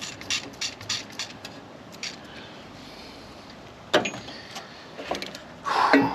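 Hand tools clicking and knocking on an engine while a stuck spark plug is worked loose: a run of light metallic clicks at about three a second, a sharper knock about four seconds in, and a brief scraping rustle near the end.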